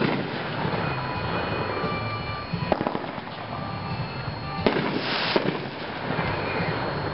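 Brothers 'Tang Dynasty' 9-shot consumer firework cake firing. Sharp reports come a couple of seconds apart, at the start, about three seconds in and twice around five seconds, with crackling in between and a short hissing burst about five seconds in.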